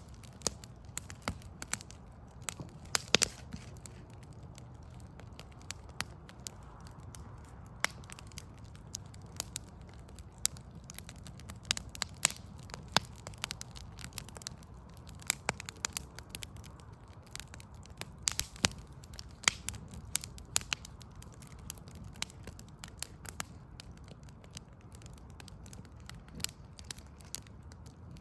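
Wood fire of burning logs crackling, with frequent irregular sharp pops and snaps over a steady low hum.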